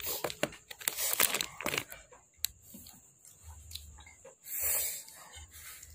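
Close-up eating and handling noises: a scatter of small clicks and crinkles, then a half-second hissing rush about four and a half seconds in.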